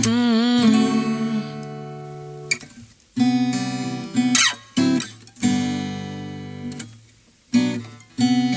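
Acoustic guitar strumming chords in an instrumental break. Each chord rings out and fades before the next is struck, with short stops between.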